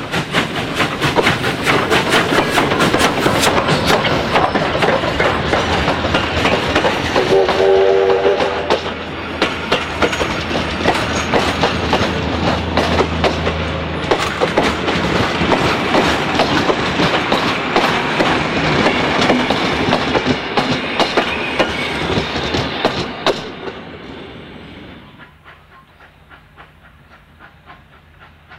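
Vintage passenger carriages behind a J class steam locomotive rolling close past, wheels clicking rapidly over the rail joints with a steady rumble and a brief pitched squeal about a third of the way through. Near the end the sound drops to a much quieter, distant train with faint regular beats.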